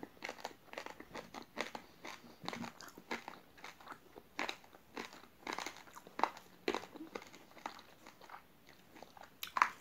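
Chewing a mouthful of raw uncooked rice grains with jelly: dense, irregular crunching of the dry rice between the teeth, several crunches a second, with a sharper crunch near the end.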